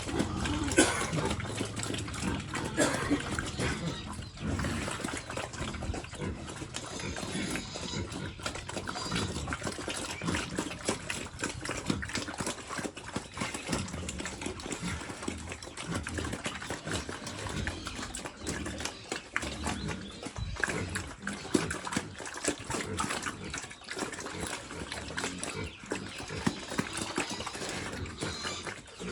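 Pigs eating wet feed of vegetables and rice, a dense, continuous run of chewing, smacking and slurping.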